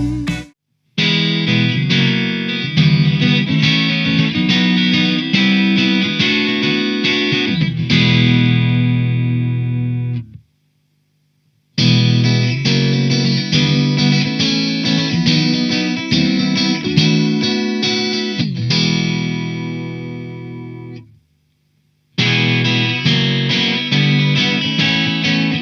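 Soloking MS-11 Classic Mk II electric guitar playing in three passages of picked notes and chords. Each of the first two ends on a chord left to ring and fade before cutting off into a brief silence, and a third passage starts near the end.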